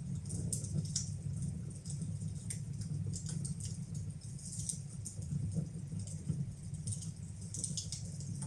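Fireplace fire burning, with irregular small crackles and pops over a steady low rumble.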